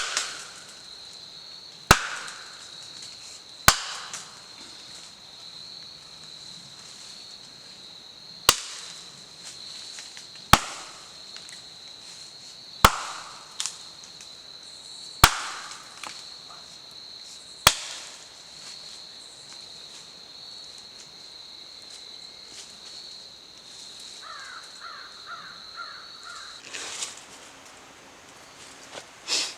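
Steady high-pitched insect drone, with eight sharp cracks or knocks at irregular gaps of about two seconds, each trailing off briefly; the drone stops near the end.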